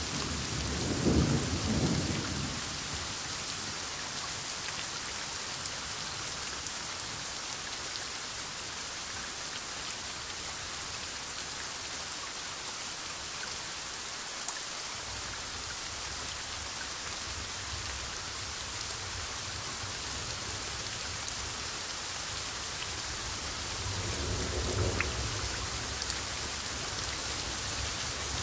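Steady heavy rain with rolling thunder: a loud rumble about a second in, low distant rumbling through the second half, and another rumble swelling near the end.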